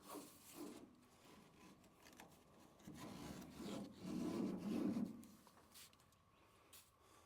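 Rubbing and scraping as a heavy roll of baler net wrap is handled and shifted, building from about three seconds in and loudest between four and five seconds, with a few light clicks.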